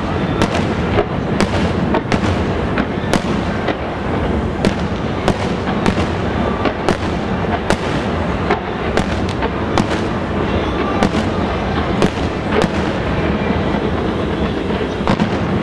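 Fireworks going off continuously: a dense crackling rumble with sharp bangs every second or so, irregularly spaced.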